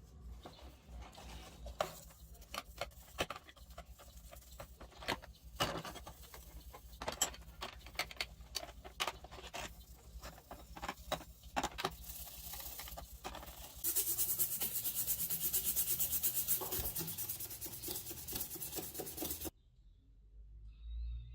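Fishing tackle being handled: irregular clicks, knocks and rubbing. Then, for about five seconds, a louder fast steady rasping ticking that stops suddenly.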